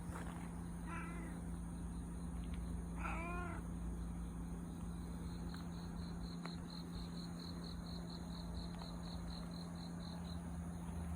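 A cat meowing twice, short rising-and-falling calls about a second in and about three seconds in. Later comes a fast, even, high-pitched ticking trill of about five pulses a second that lasts around five seconds.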